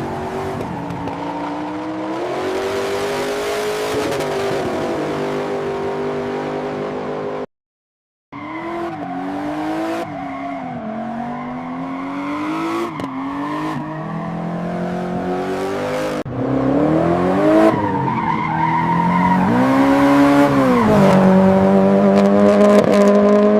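Sports car engines revving, heard in separate takes. Their pitch climbs and falls several times, with a short break about seven seconds in. The loudest take near the end dips and then rises to a high, steady note.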